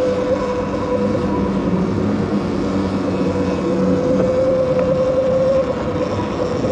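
Electric bike motor whining at a steady pitch while riding, over a rush of wind and tyre noise.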